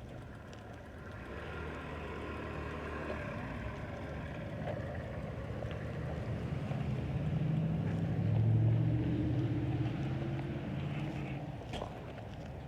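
Engine of a passing vehicle, growing louder to a peak about eight or nine seconds in and then fading, with a faint higher whine in the first few seconds.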